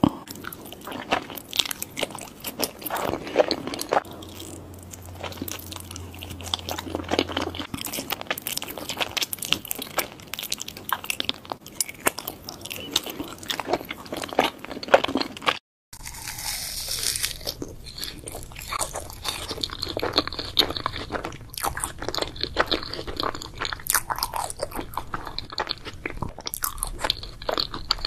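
Close-miked eating of soft, cream-filled mochi: biting and chewing with many sharp mouth clicks and smacks. There is a brief silent break a little past halfway.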